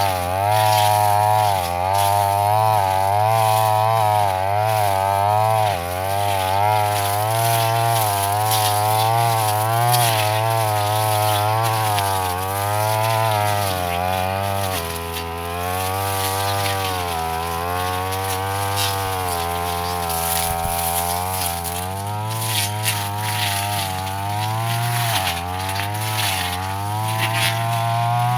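Brush cutter engine running at high speed, its pitch wavering up and down as the blade works through tough grass.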